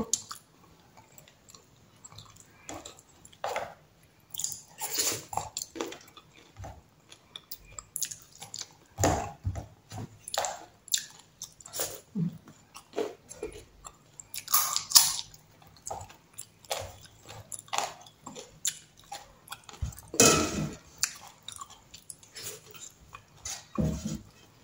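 Close-up eating sounds: a person chewing a mouthful of rice and utti curry, with irregular wet smacks and clicks. There are occasional squishes as fingers mix the food on a metal plate.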